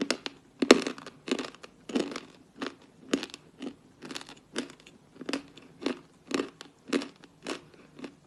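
Natural chalk being chewed close to the microphone: crisp, dry crunches at an even pace of about two a second.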